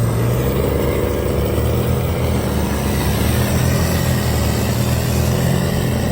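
Diesel stub truck's engine running at a steady pitch while driving, with a haze of wind and driving noise over it.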